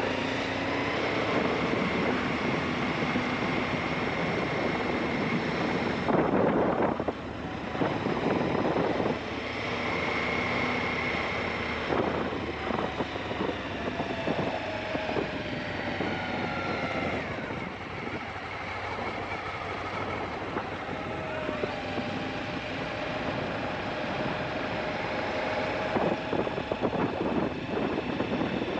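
Aprilia Shiver 750's V-twin engine running on the move, its pitch rising and falling with throttle and gear changes, under heavy wind noise on the microphone that gusts louder a few seconds in and again near the end.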